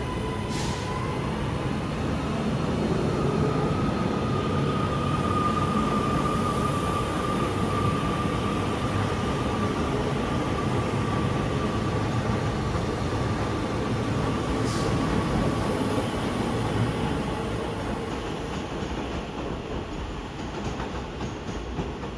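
A train running on rails close by: a steady rumble of wheels on track with a faint high whine drifting slightly lower in pitch, fading away over the last few seconds.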